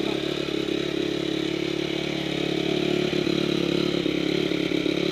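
2004 Honda CRF250R's single-cylinder four-stroke engine running at a steady speed on its first start after a top-end rebuild, with a reconditioned head, all-new valve parts and a new piston kit.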